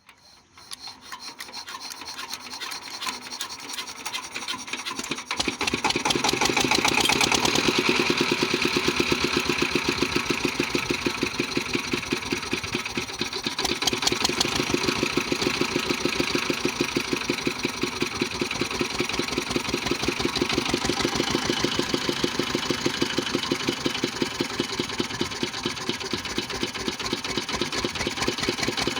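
Old 18 hp diesel engine being turned over, its beat building for the first few seconds, then catching about five seconds in and running with a steady, fast, even beat.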